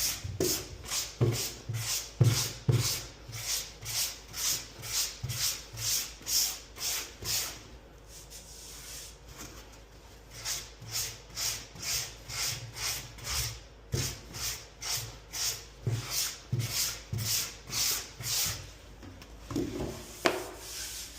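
Sandpaper rubbed back and forth by hand over the painted Bondo patch on a porcelain tub, a steady rhythm of about two to three hissing strokes a second with two short pauses. It is a final light sanding to smooth the paint before the gloss coat.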